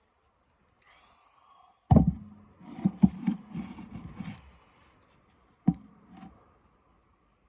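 A series of hard knocks and thumps: one sharp knock, a quick cluster of clattering knocks, then two more knocks a little later.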